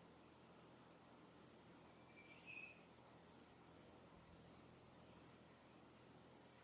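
Faint, high-pitched bird chirps in short clusters of a few quick notes, repeating about once a second, with one lower chirp a little past two seconds in, over a soft steady background hiss.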